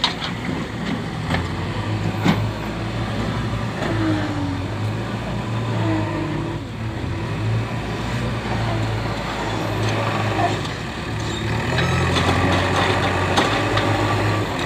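JCB 3DX backhoe loader's diesel engine running steadily under work, with a few brief knocks.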